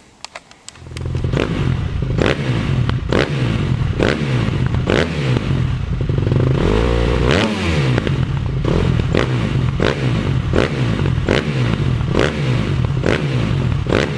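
Motorcycle engine running with its revs rising and falling over and over, starting about a second in, with sharp knocks at a regular pace of roughly three every two seconds.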